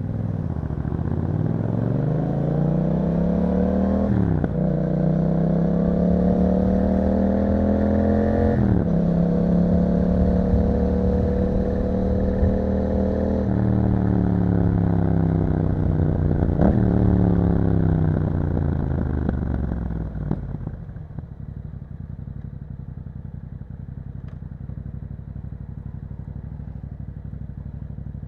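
Yamaha MT-07 parallel-twin engine through an aftermarket Akrapovič exhaust, accelerating from the rider's position. The note climbs and drops sharply twice with upshifts, then falls off as the throttle is eased. About 20 seconds in it settles to a low, steady, quieter note.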